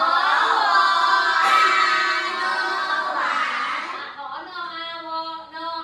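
A class of young children voicing together in unison, in drawn-out, sing-song syllables. Loudest over the first three seconds, then quieter.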